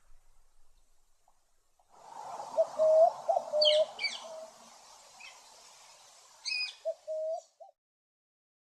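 Birds calling: a run of short, low hooting notes on nearly the same pitch, with a few sharp high calls mixed in. The calls start about two seconds in and stop abruptly near the end.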